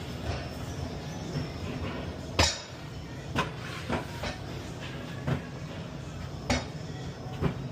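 About six sharp metal clanks and knocks at irregular intervals, the loudest about two and a half seconds in, over a steady low hum.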